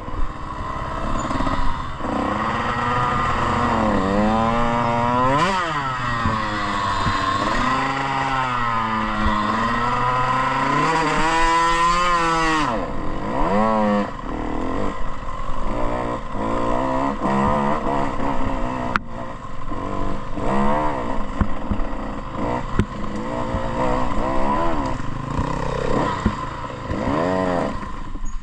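Motocross bike engine being ridden hard, the revs climbing and falling over and over. For the first dozen seconds the pitch swings in long smooth sweeps, then it turns to short, choppy blips of throttle, with one sharp click partway through.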